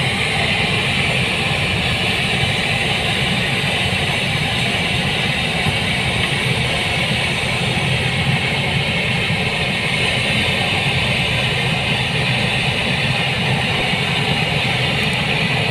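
New Holland 8060 combine harvester running steadily in a rice paddy, its engine and threshing machinery making a continuous, even din.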